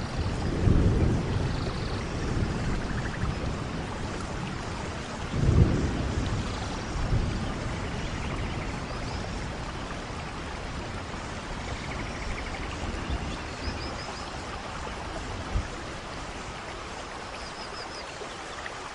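Rain falling steadily during a thunderstorm, with low rolls of thunder swelling about half a second in and again around five and a half seconds, then dying away.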